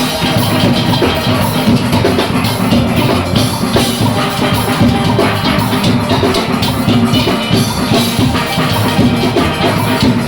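A steel orchestra playing: many steelpans together over a driving rhythm section of drum kit and percussion.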